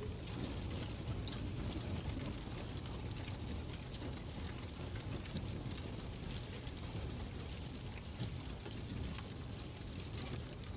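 Fireplace ambience: a steady low rumble with many small, irregular crackles and pops.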